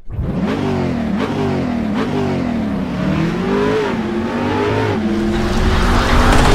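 Jaguar XE sports sedan's engine revving: its pitch rises and falls in a series of throttle blips, then holds steadier and grows louder near the end.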